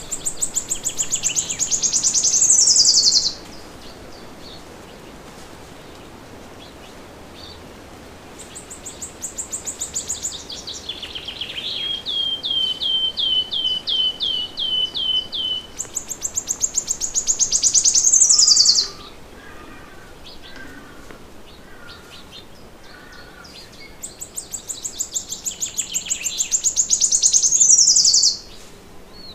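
A songbird singing four song bouts. Each is a fast, high trill that grows louder over about three seconds and then stops abruptly, with pauses of about five seconds between them. The second bout runs on into a slower series of lower, slurred notes, and faint softer chirps fill the pauses.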